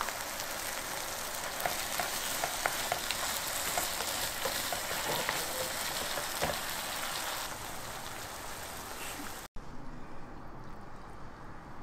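Stir-fried mushrooms and fish cake sizzling in a hot wok, with scattered light clicks of stirring. The sizzle cuts off suddenly near the end, and a quieter stretch with a few light clicks follows.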